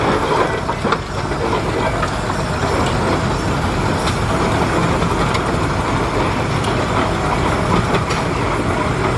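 Antique tractor running steadily as it passes in a parade, a low, continuous mechanical rumble.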